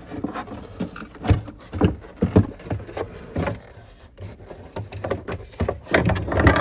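Irregular knocks, rubs and scraping as a tube radio's chassis is worked at and tugged, caught on something that still holds it in its cabinet. The knocks come thicker near the end.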